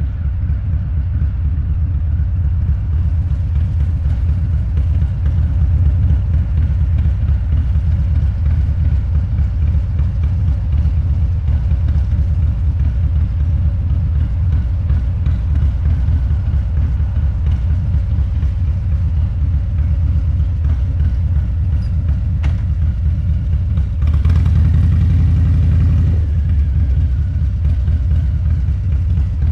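Harley-Davidson Low Rider's 129 cubic inch V-twin running through a Two Brothers Racing exhaust on the move, a steady low rumble that grows louder for about two seconds near the end.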